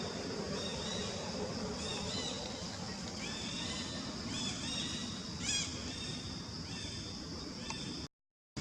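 A series of short, high-pitched chirping calls from an animal, repeating about once or twice a second over a steady outdoor hiss. The sound cuts out abruptly near the end.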